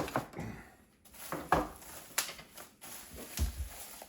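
Handling noise from a boxed PC power supply being unpacked: a few sharp knocks and clicks with rustling between them, and a low thump near the end.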